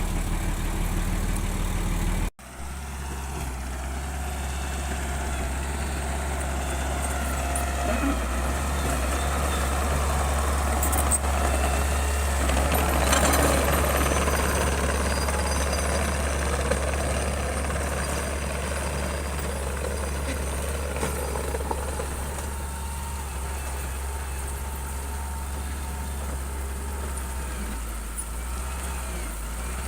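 Heavy diesel engine of a bulldozer running steadily with a deep low hum, the sound cutting out for an instant about two seconds in and swelling a little midway.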